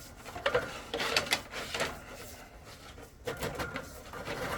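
Irregular scraping and rattling of a drain cable being fed along a sewer pipe, in uneven bursts.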